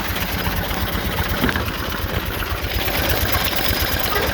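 1919 Autocar truck's two-cylinder engine idling with a steady, even chugging beat.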